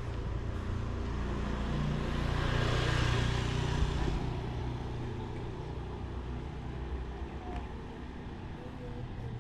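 A motor vehicle passing close by, growing louder to a peak about three seconds in and then fading away.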